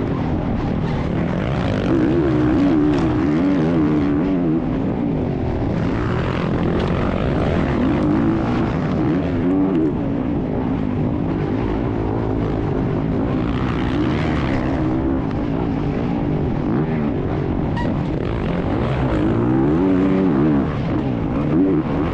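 Motocross dirt bike engine running hard while riding, its pitch rising and falling repeatedly as the throttle is opened and closed.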